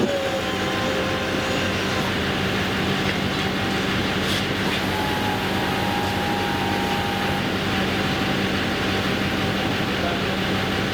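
A vehicle running: a steady rumble with a constant low hum.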